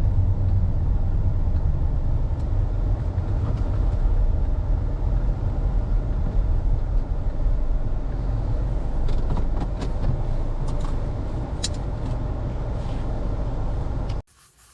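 Car driving on the road: a steady low rumble of engine and tyre noise, with a few light clicks and ticks later on. The rumble eases a little in the second half and cuts off suddenly near the end.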